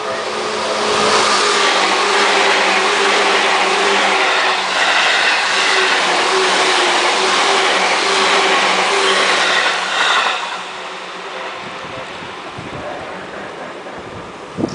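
A train passing by: loud running noise that builds over the first second, holds with a steady motor tone, and falls away after about ten seconds.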